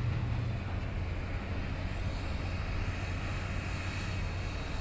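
HOWO ten-wheel dump truck's diesel engine running steadily, its low hum dropping slightly in pitch about half a second in.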